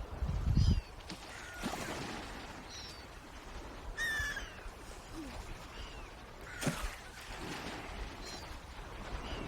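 Bird calls, short and gliding in pitch, come about once a second over a steady wash of water. A low rumble sits under the first second.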